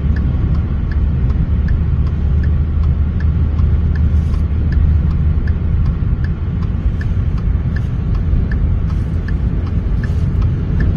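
A car's steady low rumble, with a faint regular tick about twice a second.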